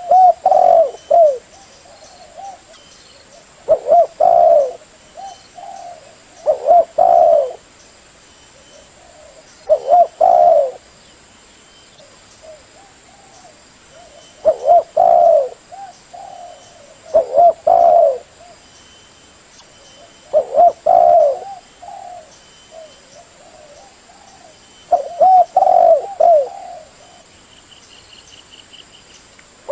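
Spotted dove cooing: about nine loud coo phrases, one every three seconds or so, each a short run of low, wavering notes.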